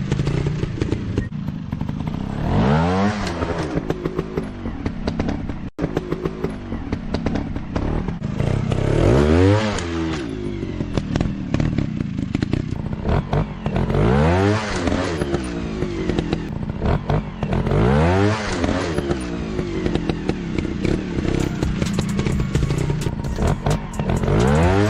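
Motorcycle engine running and revving up again and again, a rising sweep in pitch about every five seconds over a steady running note, with some clattering.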